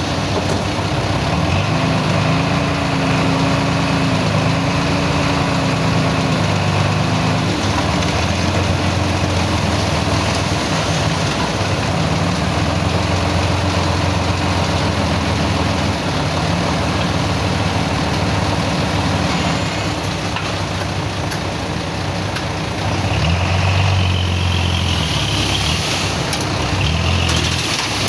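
Heavy diesel engine running, its pitch rising and falling as it works. A faint high whine comes in near the end.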